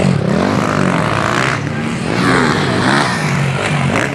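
Motocross bikes' engines revving hard on the track, the pitch climbing and dropping several times as the throttle is worked through the gears.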